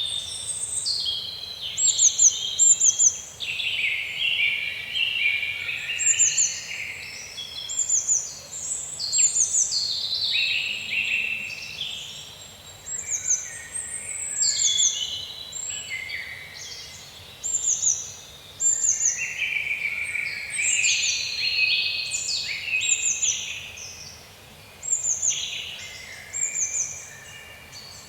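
Several songbirds singing, overlapping phrases of high, quick downward-sweeping notes often given in twos and threes, over a faint steady background hiss.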